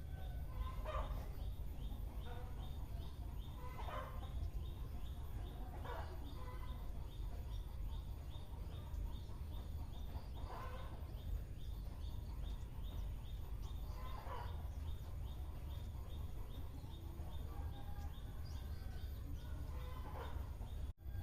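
Outdoor birdsong: a bird call repeated every few seconds, over a fast, even, high-pitched ticking at about four to five a second and a steady low rumble.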